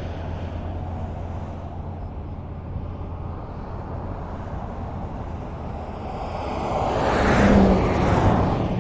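Highway traffic: a steady low hum of road noise, then a vehicle approaches and passes close by, its tyre and engine noise swelling to a peak near the end and fading away.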